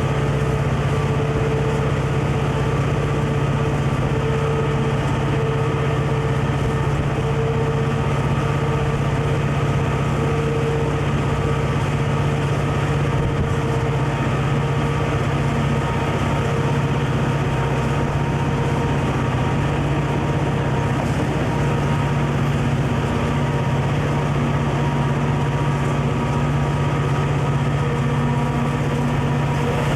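Steady drone of a Conrail diesel locomotive's engine, an even hum that does not rise or fall.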